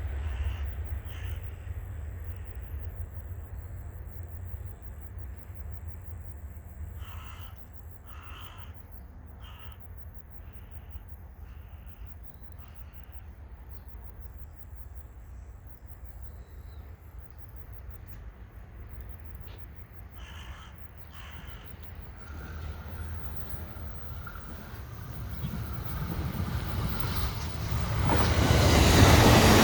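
Shinano Railway SR1 series electric train approaching, its noise building over the last several seconds and loudest at the end. Before it, a low rumble fades, and a few short bird calls come in two spells.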